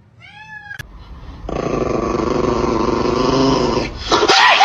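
Cat growling: a short rising-and-falling call, then a loud, rough growl lasting about two and a half seconds, then wavering yowls near the end, typical of a cat fighting another cat.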